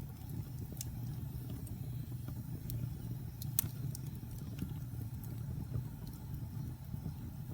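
Wood fire burning in a fireplace: a steady low rumble of flame with scattered sharp crackles and pops, one louder pop about three and a half seconds in.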